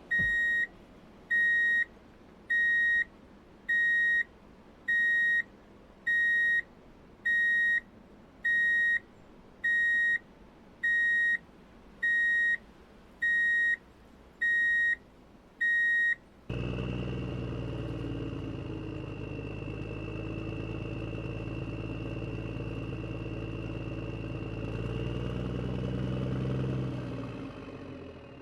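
Toy vehicle's electronic sound effects: a steady warning beeper, one beep a little over a second apart, about fourteen times. About sixteen seconds in it switches to a steady engine-like drone with a high whine on top.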